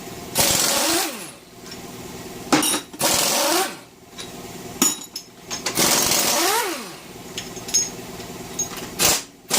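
Air impact wrench loosening bolts on a small-block Chevy 350 during teardown: three short bursts of hammering a few seconds apart, each with the motor's whine rising and then falling as it spins up and runs down.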